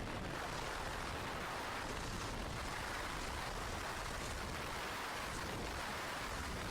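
Steady rush of wind and water noise from a fast centre-console powerboat running at speed, with a low rumble underneath and no distinct engine note.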